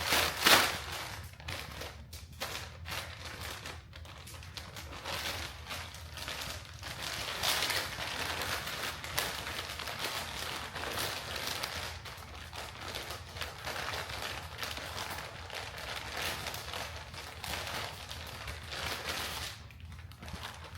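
Plastic packaging crinkling and rustling as it is handled, with two louder rustles right at the start.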